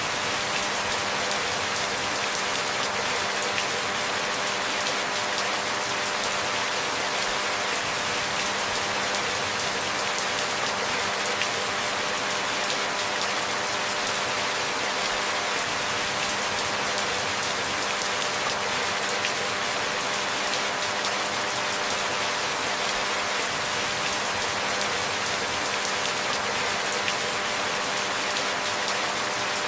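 Steady rain falling, an even hiss with no sudden changes. A faint steady hum sits beneath it.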